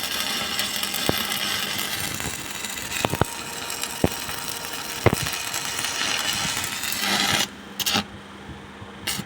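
Electric arc welding: a steady crackling arc with a hum underneath and a few sharp pops. It cuts off suddenly near the end, sputters briefly, then strikes again.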